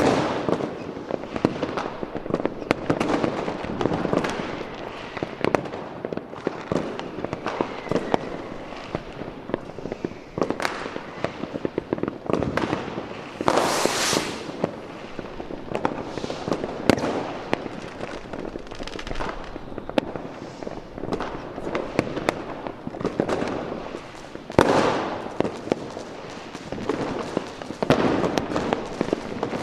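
Fireworks display: a rapid, uneven run of bangs and crackling pops with rolling echoes, and a brief loud hiss about halfway through.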